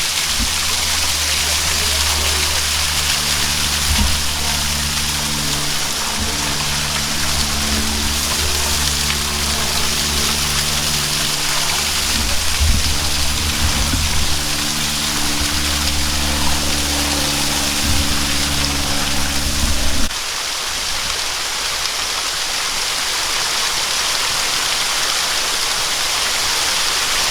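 Waterfall rushing steadily, with a low droning hum underneath that cuts off suddenly about two-thirds of the way through.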